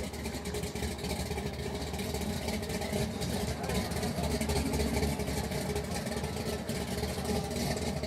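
Car engine idling: a steady low rumble that swells slightly about halfway through.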